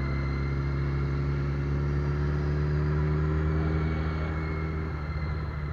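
Suzuki Hayabusa's inline-four engine running steadily at highway speed, its note creeping slightly upward, then falling off about five seconds in.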